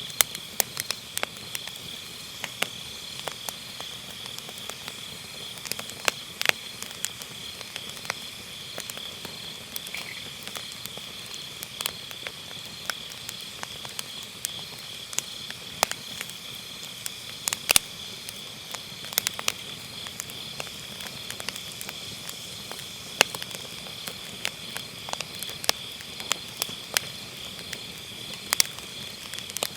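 Firewood burning in a fire pit, crackling with irregular sharp pops, over a steady high chirring of autumn grass insects.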